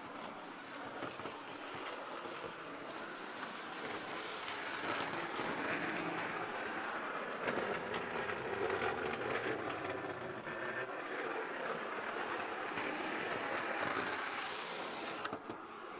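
HO scale Bachmann model train locomotive running on the track: the small motor's steady whir, with fine clicking from the wheels on the rails, a little louder in the middle. Toby is running rough after sitting unused and is still warming up.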